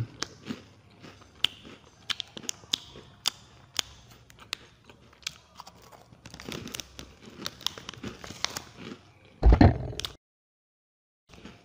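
Close-up chewing and biting of chocolate wafer cake, many small sharp crunches, with some crinkling of the foil packet. A loud thump comes about nine and a half seconds in, then the sound drops out completely for about a second.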